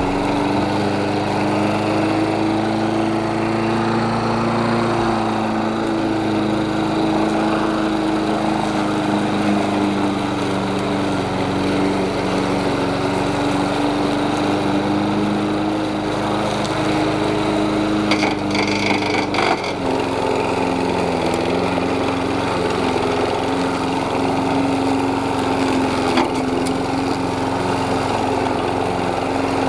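Lawn mower running steadily, its hum holding one pitch with a slight drift. About two-thirds of the way through a brief higher-pitched rattle sounds, after which the hum settles a little lower in pitch.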